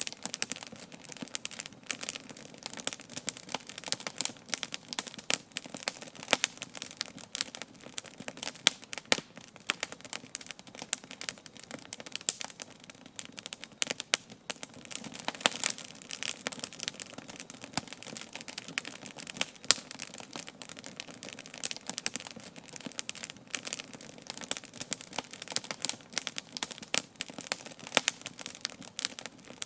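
Wood campfire burning, its logs crackling and popping in a dense, irregular stream of sharp snaps.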